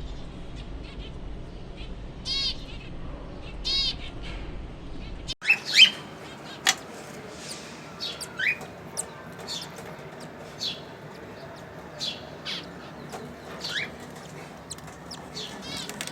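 Pet birds in an aviary chirping and calling: a few short calls first, then an abrupt change about five seconds in, after which comes a busier run of quick chirps and a few short rising whistles.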